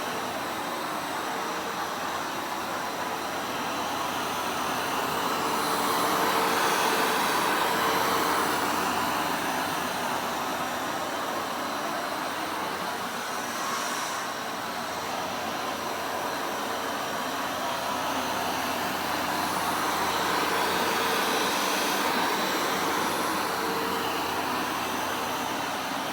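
Vacuum cleaner running steadily, its sound slowly swelling and fading every several seconds.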